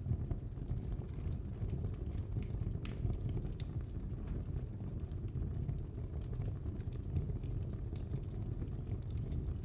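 Fireplace fire crackling: scattered sharp pops and snaps over a steady low rumble of the burning fire.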